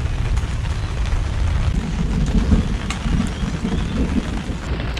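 Rain pattering on a pop-up canopy overhead, with scattered small ticks of drops and a low rumble underneath.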